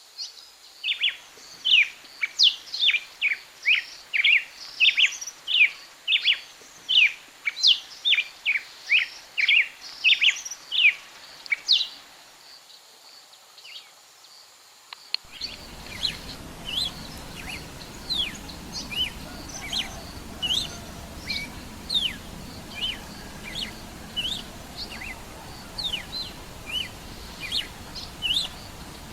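A songbird calling with a string of short, high, down-slurred notes, about two a second, then after a short pause a noisier recording of similar notes at a slower pace of about one a second.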